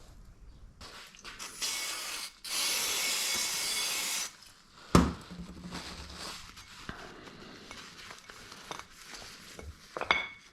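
Workshop sounds of scooter variator parts being cleaned and handled: a loud steady hiss for about three seconds, then a single heavy metal clunk, small knocks, and a bright ringing metal clink near the end.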